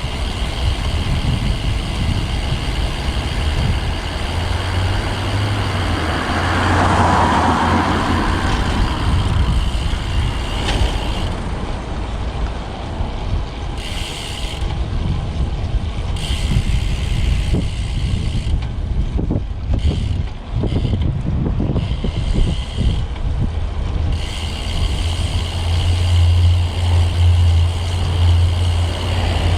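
Wind rumbling on the microphone of a road bike ride through street traffic, with motor vehicles passing. A hiss swells and fades about seven seconds in.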